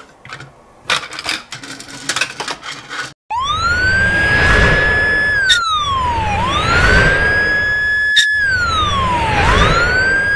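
A few faint clicks and taps, then about three seconds in a police car siren starts suddenly and wails: each cycle rises quickly, holds high, then falls, repeating about every three seconds over a low engine rumble.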